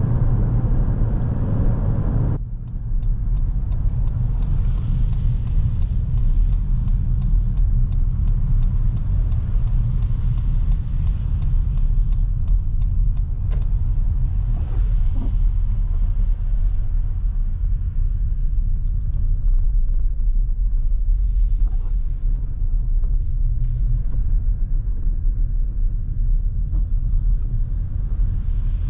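Lexus NX350h hybrid SUV driving, with a steady low road and tyre rumble. About two seconds in, a higher hiss cuts off suddenly, leaving mostly the low rumble.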